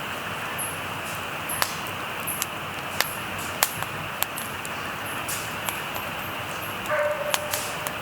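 Wood fire crackling in a fire pit: sharp, irregular pops and snaps over a steady hiss. A faint high chirp repeats about every 0.7 seconds, and a brief pitched call sounds about seven seconds in.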